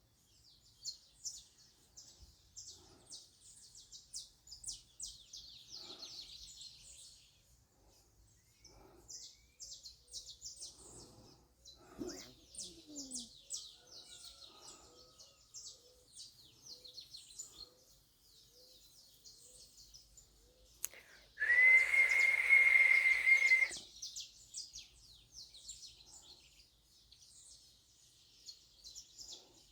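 Small birds chirping and twittering rapidly in high notes, on and off throughout. About three-quarters of the way through, a much louder steady high whistling tone sounds for about two seconds and stops abruptly.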